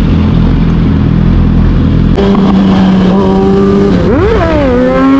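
Suzuki sportbike engine running steadily at low revs; about two seconds in the note changes suddenly to a higher pitch, and near four seconds it revs up sharply, then drops back and holds a steady higher note.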